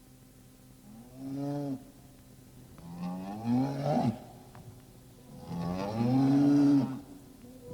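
Cow mooing three times, the last call the longest and loudest.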